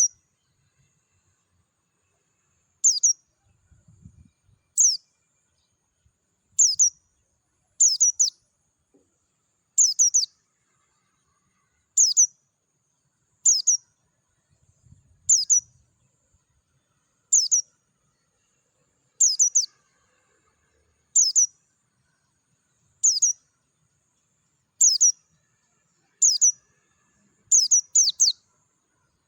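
White-eye (pleci) giving short, high chirps, each a quick falling note, one about every two seconds and now and then two in quick succession.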